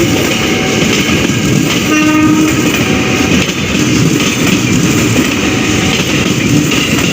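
A train running past close by, a loud steady rumble of wheels and car bodies, with a short horn note about two seconds in.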